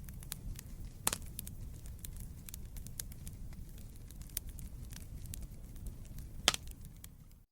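Wood fire in a fireplace crackling: a steady low rumble of flames under frequent small snaps, with two louder pops, one about a second in and one near the end.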